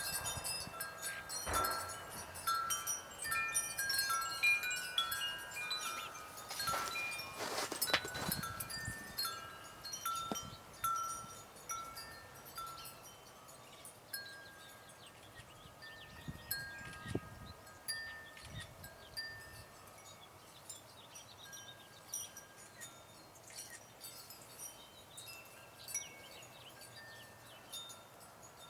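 Wind chime ringing, its tubes sounding a few fixed notes struck in quick, irregular succession. The notes come thickly for the first dozen seconds, then more sparsely and faintly. Short, high chirps of small birds run throughout.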